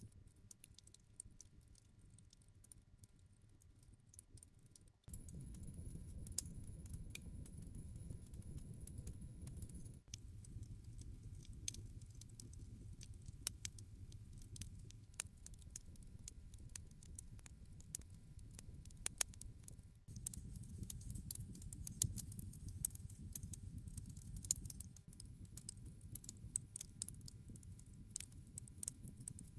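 Wood fire burning: scattered sharp crackles and snaps over a low steady rumble of the flames. The rumble steps up or down abruptly a few times.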